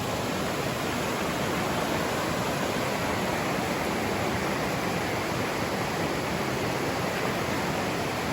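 Fast-flowing river rushing steadily, a strong current of water running over its bed.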